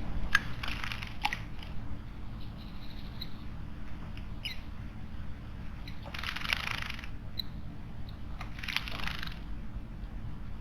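Small wild birds at a garden water basin: a few short, high chirps and one quick falling call, with two noisy bursts about a second long around six and nine seconds in.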